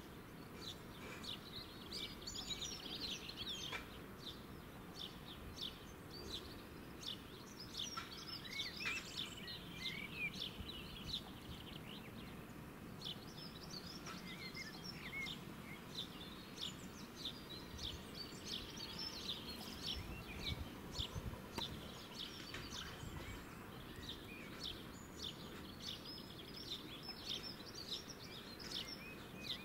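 Small birds chirping and singing in many quick, short notes, with a brief lull near the middle, over a steady low background rumble.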